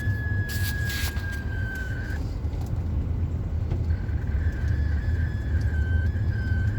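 Police car driving on the highway, heard from inside the cabin: a steady low road and engine rumble, with a thin high-pitched whine that drops out for a couple of seconds in the middle and a brief hiss about half a second in.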